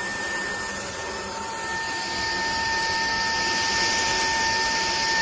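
JELLYPIG cordless stick vacuum cleaner running: a steady high motor whine over a rushing airflow hiss that grows louder about two seconds in.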